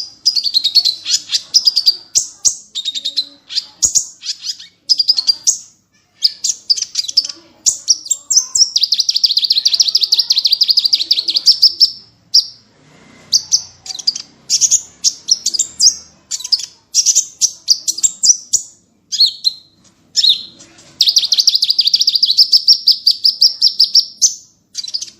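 Small songbirds singing fast, high-pitched chattering phrases and long rapid trills, the sharp 'tembakan' bursts sought in masteran recordings for training songbirds. Two long unbroken trills stand out, one about a third of the way in and one near the end.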